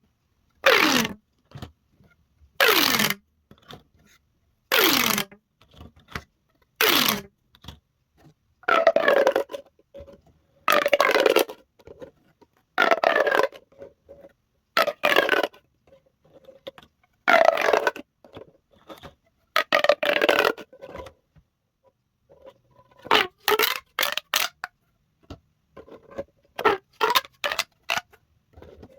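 Corrugated plastic pop tubes being stretched and squashed, each pull a short burst of ridged popping and rasping. The first few bursts each carry a falling tone; the middle ones run longer, and near the end come quick short pulls in rapid succession.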